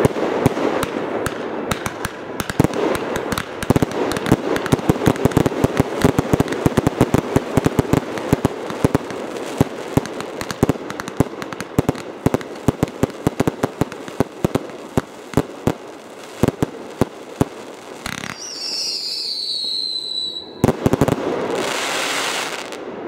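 Fireworks going off: a dense, rapid run of crackling pops and bangs that thins out after about fifteen seconds. Near the end a whistling firework gives a falling whistle lasting about two seconds, followed by a bang and a short rush of crackle.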